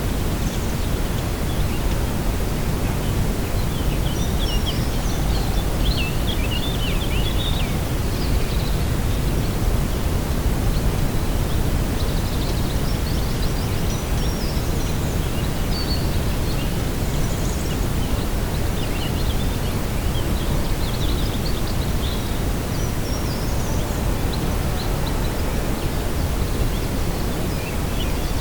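Lakeside ambience: a steady, low rushing of wind, with birds chirping in short, scattered phrases throughout.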